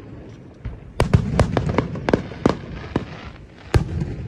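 Fireworks bursting: a rapid run of sharp bangs about a second in, a brief crackle after them, then one more loud bang near the end.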